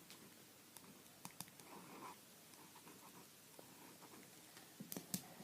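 Pen writing on paper in a notebook: faint scratching and light ticks, with a few sharper clicks near the end.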